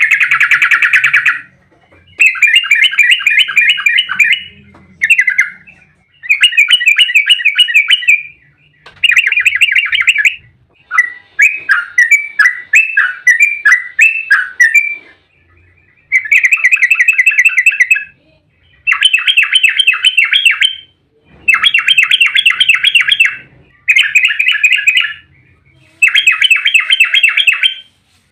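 Yellow-vented bulbul (trucukan) singing its fast, tightly rolled chatter: about ten rattling bursts of rapid notes, each a couple of seconds long, with short pauses between, and a looser run of separate notes a little before the middle.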